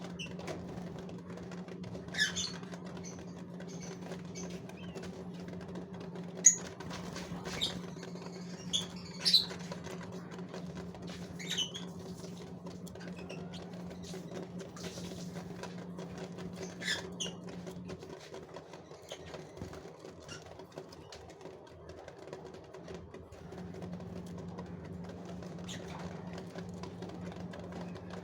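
Gouldian finches giving short, high chirps every few seconds, over a steady low hum that drops out for several seconds past the middle.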